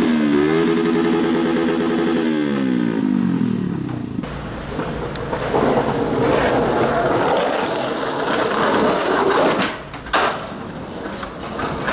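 A motor vehicle's engine, its pitch wavering and then sliding down as it passes. After that comes a steady rough rolling noise of wheels on pavement, broken by a sharp knock about ten seconds in.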